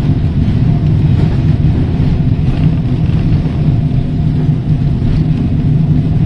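Heritage electric tram running along the line, heard from on board: a steady low rumble of wheels on rail and running gear, with a few faint clicks.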